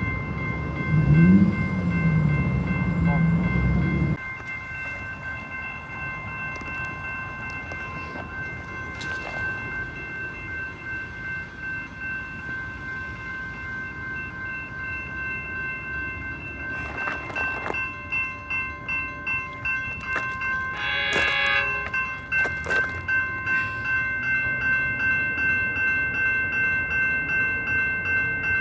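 A train passing: a loud low rumble for the first four seconds, then steady rolling noise with a regular clatter of wheels over rail joints, about twice a second in the later part. A short train horn blast sounds about three-quarters of the way through, over steady high-pitched tones that run throughout.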